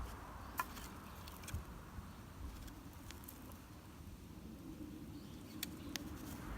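Wood campfire crackling: a few scattered sharp pops over a low steady rumble.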